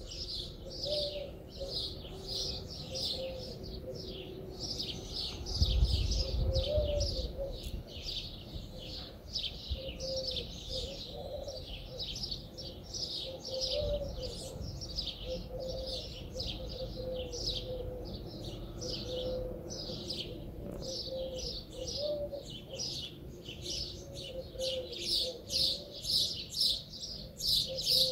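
Small birds chirping continuously, short falling chirps a few times a second. A brief low rumble comes about six seconds in, and a weaker one near the middle.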